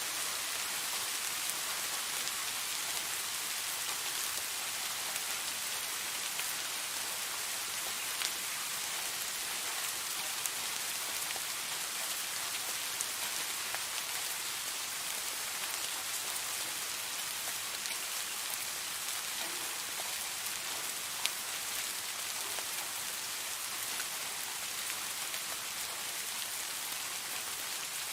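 Steady rain falling, an even hiss, with a few sharper single drops ticking now and then.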